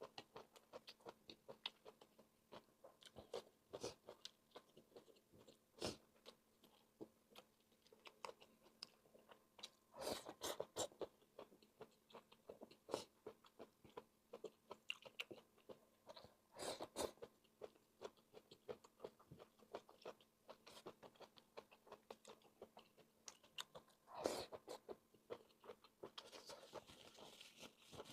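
Close-miked chewing and biting of fried rice and sliced sausage: a steady run of small mouth clicks and smacks, with louder bursts of chewing about ten, seventeen and twenty-four seconds in.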